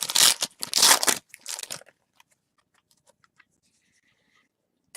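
Crinkling and tearing of a foil trading-card pack wrapper being opened by hand, in several loud bursts over the first two seconds, followed by a few faint clicks.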